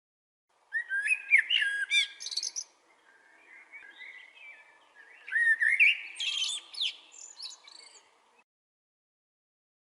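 A songbird singing two quick phrases of varied whistled and chirping notes, about a second in and again about five seconds in, with softer chirps between. The sound cuts off abruptly to silence about a second before the end.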